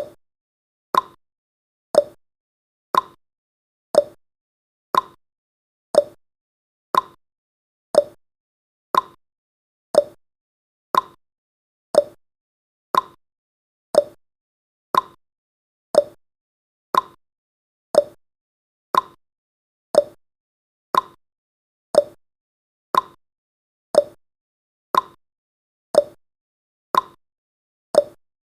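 Countdown timer's tick sound effect: one short, sharp tick every second, steady and even.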